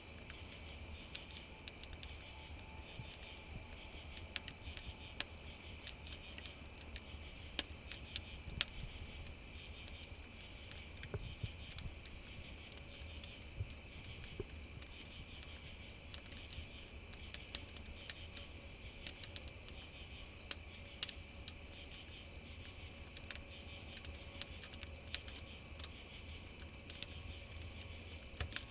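Steady chorus of crickets trilling, with a wood campfire crackling over it in irregular sharp pops. One of the loudest pops comes about eight and a half seconds in.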